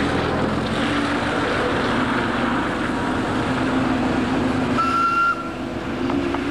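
Narrow-gauge train approaching with a steady mechanical running noise and a low hum. A short high tone sounds about five seconds in, and the overall level drops just after it.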